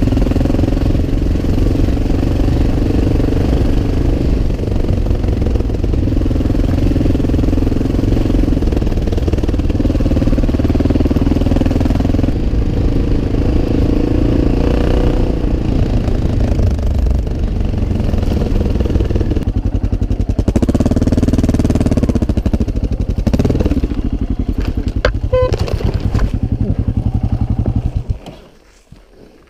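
Dirt bike engine running while riding a rough forest track, its pitch rising and falling with the throttle. Near the end the engine sound cuts off suddenly as the bike goes over into the grass.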